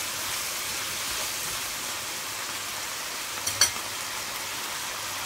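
Squid and vegetables sizzling steadily in hot oil in a frying pan, with a single sharp click about three and a half seconds in.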